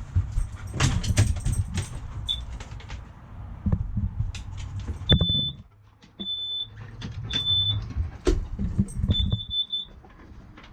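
Short high electronic beeps, one briefly about two seconds in, then four more spaced about a second apart from about five seconds in, among scattered clicks, knocks and low bumping.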